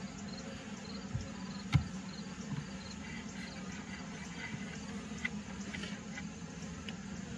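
Honeybees buzzing in a steady hum around an opened hive, with a sharp knock a little under two seconds in.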